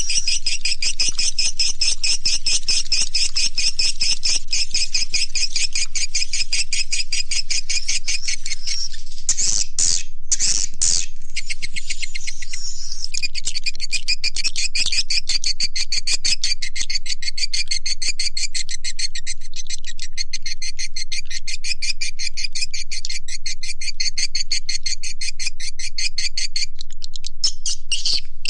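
Swiftlet call recording: a dense, continuous stream of rapid high twittering chirps, with a few separate louder calls standing out about ten seconds in. This is a lure call played by swiftlet farmers to draw edible-nest swiftlets into a nesting house.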